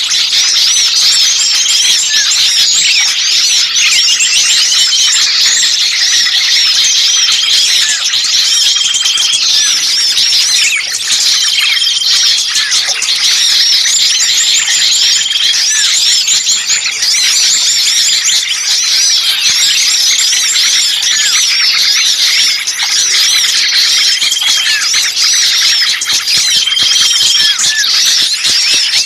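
Noisy chorus of many small songbirds chirping and squeaking at once: dense, rapid high calls with a short steady note coming back every few seconds. It is a bird-lure recording of agitated small birds, played to draw other birds in.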